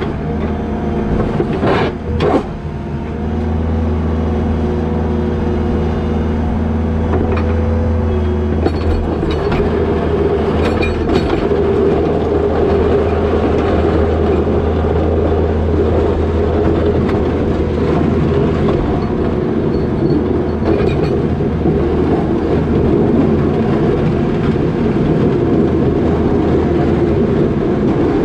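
New Holland L220 skid steer's diesel engine running steadily under load while plowing snow, with a few sharp knocks about two seconds in and again around nine to eleven seconds.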